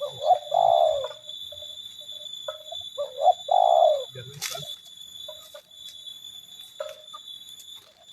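Spotted dove cooing twice, about three seconds apart, each call a short note followed by a longer drawn-out coo, with softer coo notes in between. A steady high-pitched tone runs underneath.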